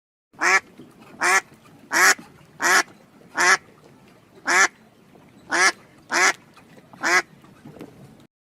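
Duck quacking: nine short, loud quacks at an uneven pace, spaced less than a second apart.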